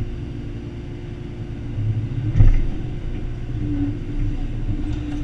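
Excavator's diesel engine running steadily while digging, with one heavy thump about two and a half seconds in.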